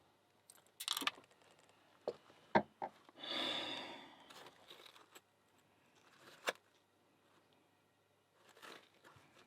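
Handling noises while taking apart a pin-tumbler padlock: a few light clicks and knocks, and a rustle lasting about a second, starting about three seconds in.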